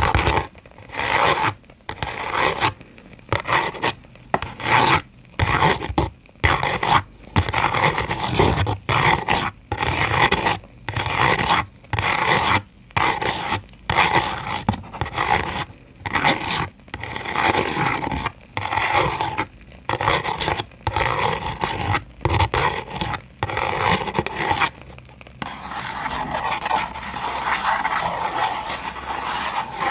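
ASMR rubbing and scraping strokes by hand on a surface, in quick repeated strokes about one a second, turning into a steadier continuous rubbing near the end.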